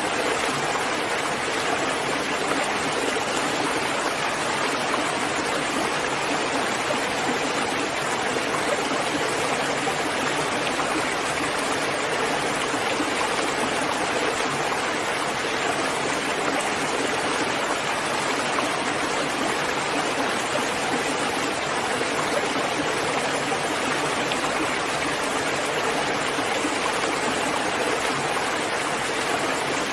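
Steady, heavy rain falling, an even unbroken hiss with no single drops standing out.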